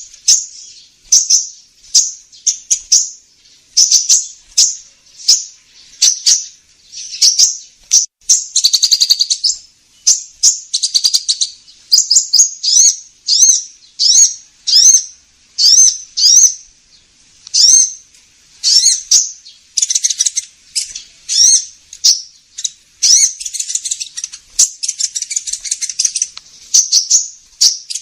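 Recorded calls of the sunbird known in Indonesia as kolibri ninja, played as a lure: a fast run of loud, high-pitched chirps and short sweeping notes, about one or two a second.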